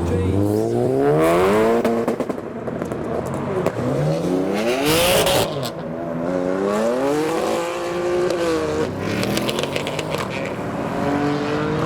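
Modified cars accelerating hard away one after another, each engine revving up in a rising sweep. About five seconds in there is a short, loud burst of noise.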